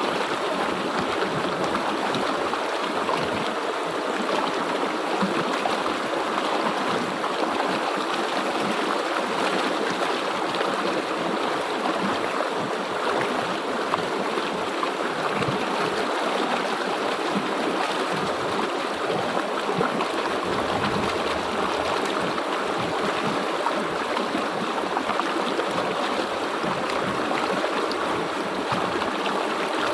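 River water flowing steadily over rocks, a constant rushing with light gurgling.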